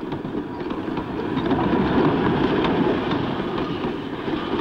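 Diesel-hauled passenger train passing, its wheels clattering over the rail joints; the sound grows to a peak about two seconds in and then fades gradually.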